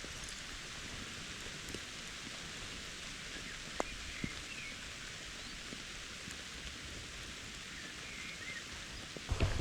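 Steady rain falling: an even hiss with a few single drops ticking sharply about four seconds in. Near the end, low thumps begin.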